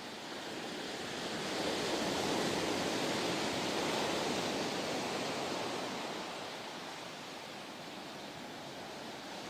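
Ocean surf: a wave surges in, building from about a second in to a peak a couple of seconds later, then washes back out and fades to a steady background rush.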